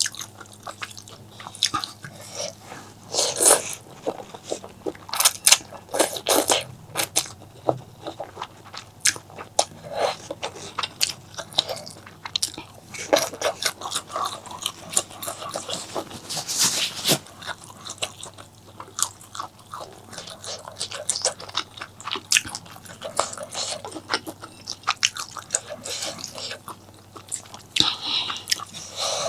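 Close-miked eating: a person biting and chewing food, with dense, irregular sharp mouth clicks and smacks and a few louder bites.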